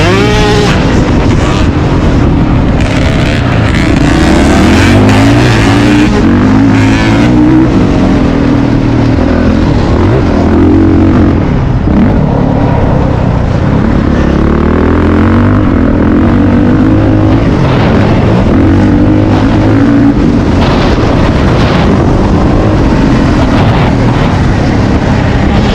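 Motocross dirt bike engine at full race load, revving up and down over and over as the bike accelerates, shifts and backs off around the track. It runs loud and without a break.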